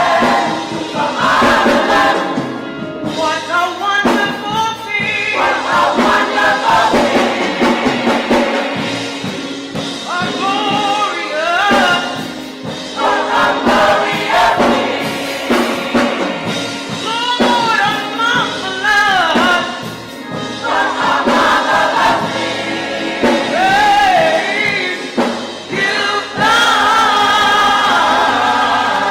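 Choir singing a gospel song, with held chords at the start and again near the end.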